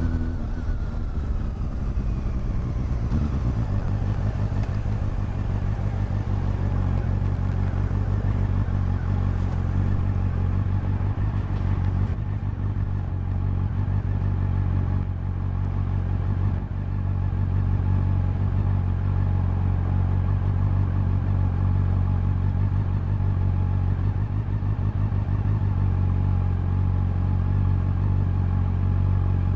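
Honda CB400 Super Four inline-four engine and exhaust. Its revs fall over the first few seconds, then it runs at a steady note.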